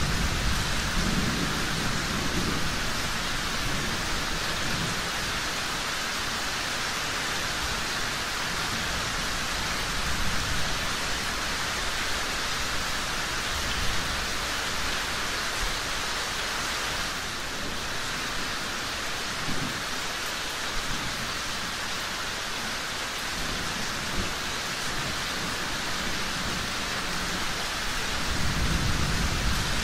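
Steady heavy rain, with low rolling rumbles of thunder near the start and again near the end, and a few sharp crackles from a wood fire.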